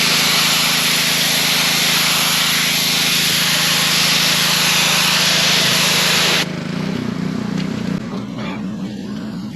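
Gasoline pressure washer running, its wand spraying water onto a retaining wall: a loud hiss of spray over the engine's steady hum. About six and a half seconds in the trigger is let go, the spray cuts off suddenly and the engine runs on alone with a rougher, pulsing note.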